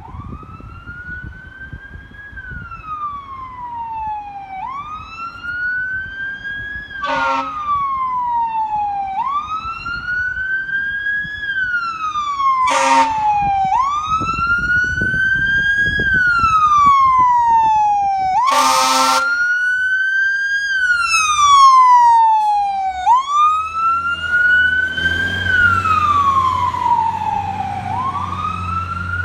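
Fire engine siren wailing, each cycle rising quickly and falling slowly, repeating about every four and a half seconds. Three short horn blasts break in at even intervals over it, with the truck's engine rumbling underneath.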